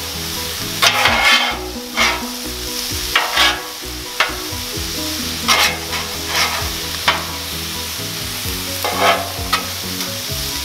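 Metal spatulas scraping and chopping across a Blackstone steel flat-top griddle, tossing fried rice, eggs and vegetables over a steady sizzle. The scrapes come irregularly, about one every half second to second.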